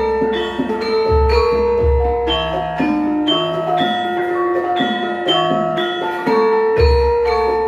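Javanese gamelan ensemble playing: bronze metallophones ring out a steady melody of struck notes, with deep low strokes about a second in, about two seconds in and again near the end.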